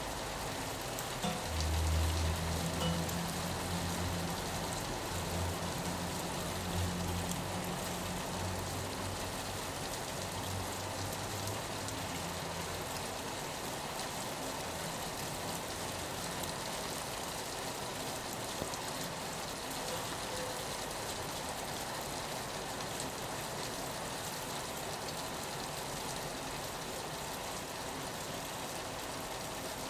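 Steady rain falling on a window, an even hiss. From about a second in, a low rumble sits underneath for roughly ten seconds before fading out.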